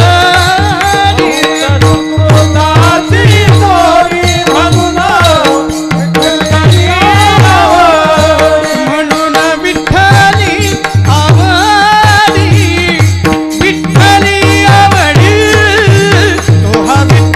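Marathi devotional kirtan singing: a man's voice carrying a wavering, ornamented melody over a steady held drone, with repeated hand-drum strokes keeping the rhythm.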